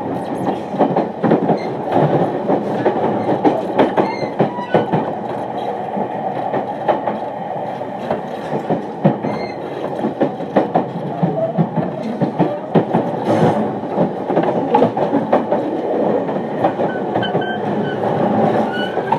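E231-1000 series commuter train heard from inside its motor car while running, with rapid clickety-clack of the wheels over rail joints and points over a steady rumble of running noise. A few faint high tones come in near the end, from the Hitachi IGBT-VVVF inverter and traction motors.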